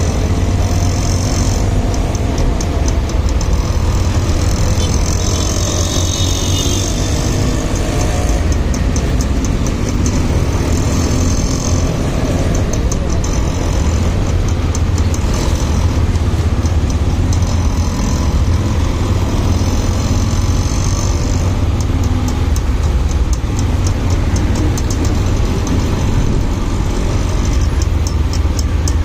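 Motorcycle on the move in road traffic: steady engine and road noise with no pause.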